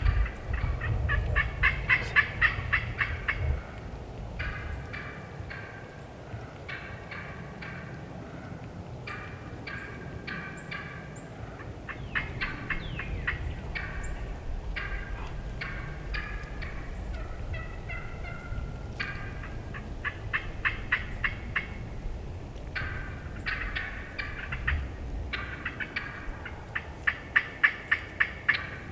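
Turkey calling: burst after burst of rapid, rattling gobble-like notes, loudest at the start and again near the end.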